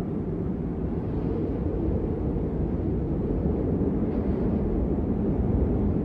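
Blizzard wind ambience: a steady, deep, low-pitched noise with no distinct crackles or clicks.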